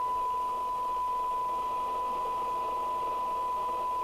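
Steady 1 kHz test tone from a Maxcom 4E FM CB radio's receiver, with a faint hiss beneath it. The receiver is demodulating a weak signal-generator carrier, held near its sensitivity limit of under a microvolt for a SINAD measurement.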